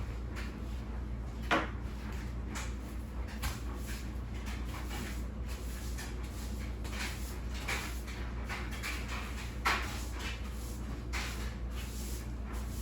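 Household cleaning and handling noises: short scattered swishes with a couple of light knocks, over a steady low hum.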